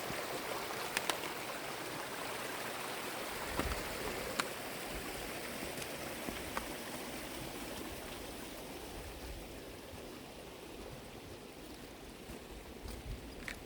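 A small burn running, a steady rush of water that slowly fades over the second half, with a few faint clicks.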